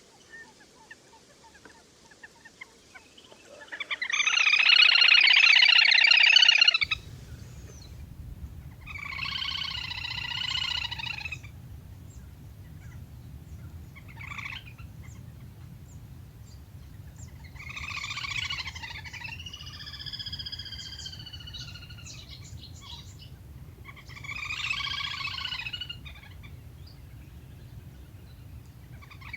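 Little grebe calls: a series of trilling bursts lasting two to three seconds each, the first and loudest about four seconds in, then five more spaced a few seconds apart. A low steady hum runs under the later calls.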